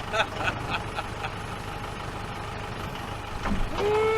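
Tractor engine running steadily while it works with its forks on a heavy load. Near the end a short pitched sound rises and then falls over it.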